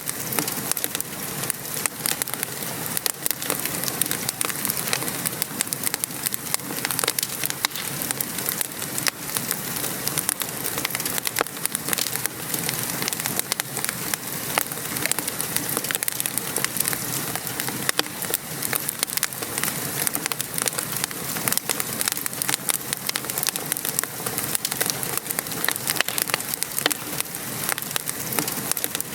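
Wood fire crackling with a steady scatter of small sharp pops, over the even hiss and patter of rain falling.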